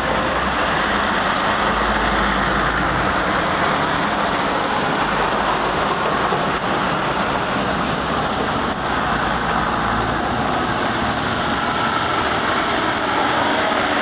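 Steady road-vehicle noise, a continuous rush of engine and tyres with a low rumble and no distinct events.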